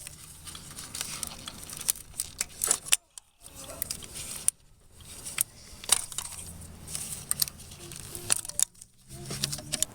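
Irregular jangling and clinking of small hard objects being handled, like keys or small toy pieces knocking together, with a few brief pauses.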